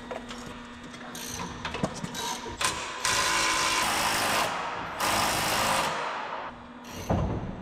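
A power tool run in two bursts of about a second and a half each, with clicks and knocks of metal parts being handled before them and a knock near the end.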